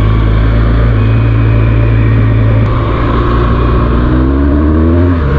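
BMW R1200GS flat-twin boxer engine running under way on a motorcycle ride, its note climbing toward the end and then dropping.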